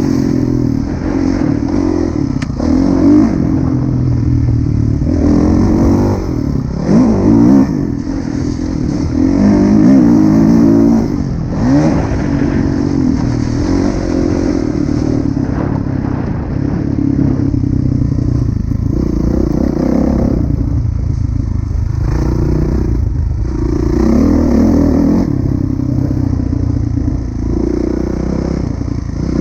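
Kawasaki KX450F motocross bike's 450 cc four-stroke single-cylinder engine being ridden hard, revving up and dropping off again and again as the throttle opens and closes, with some clatter.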